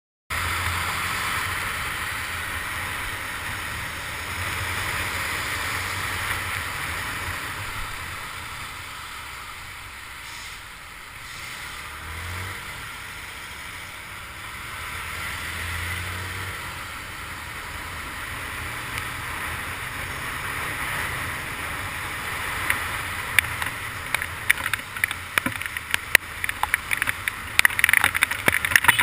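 Honda CG 150 Titan's single-cylinder four-stroke engine running under way, its low note rising and falling with the throttle, under a steady hiss of wind and rain on a wet road. From about two-thirds of the way through, irregular sharp crackles and taps join in.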